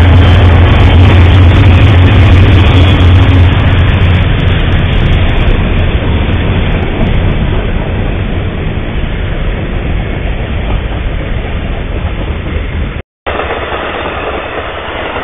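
A train passing close by: a deep, steady diesel locomotive rumble fades over the first few seconds, and the noise of the cars rolling past goes on after it. About 13 s in the sound cuts out briefly, then comes back as the rolling noise of an Amtrak stainless-steel passenger coach going by.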